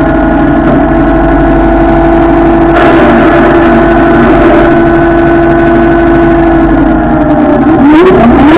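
Minneapolis Moline G900 LP tractor's propane-fuelled engine running steadily under way. Near the end the engine note dips and then climbs in pitch.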